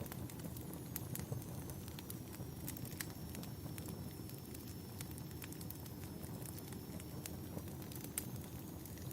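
Campfire burning: a steady low rumble of the flames with frequent sharp crackles and pops from the burning wood.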